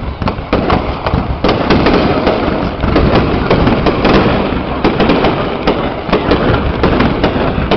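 Fireworks going off in a dense, continuous barrage of overlapping cracks and bangs, growing heavier about a second and a half in.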